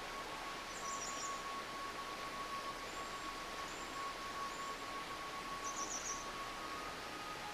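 Small stream babbling steadily, with small birds calling high above it: a short rapid trill about a second in and another near the end, and a few thin whistles in between. A faint steady high tone runs underneath.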